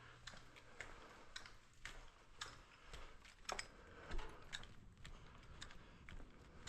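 Faint, irregular light clicks and taps, a few a second, like small hand work with tools and pipe fittings.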